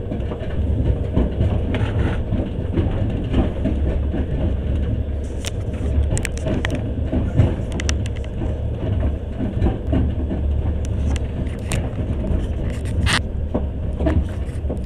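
Passenger train running, heard from inside the carriage: a steady low rumble with scattered sharp clicks and rattles at irregular moments.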